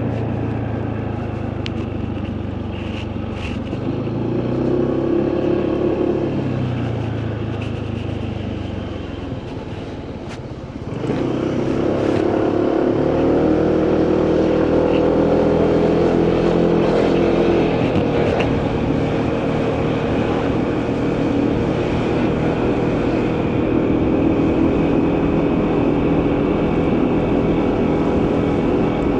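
Motorcycle engine running on the road with wind and road noise; the revs rise and fall over the first few seconds, it eases off about ten seconds in, then pulls away again and runs on at a steady, higher pitch.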